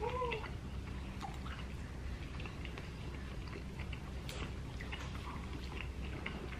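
Quiet mouth-closed chewing with small scattered clicks of forks digging into soft baked potato and seafood. One short hummed sound comes at the very start.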